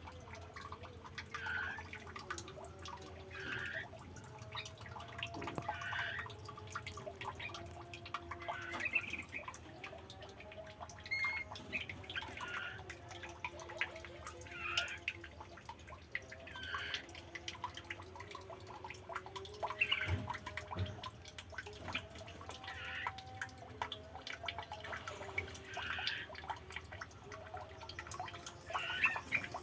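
Water trickling and dripping, with a brighter drop or plop every one to two seconds over a steady run of small splashes.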